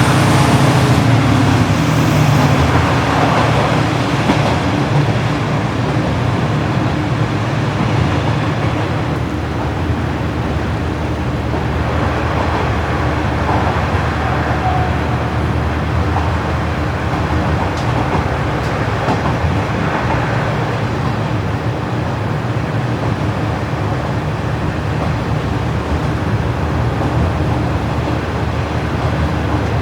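KiHa 40-series diesel railcar running, heard from on board: a steady engine drone with running noise from the rails.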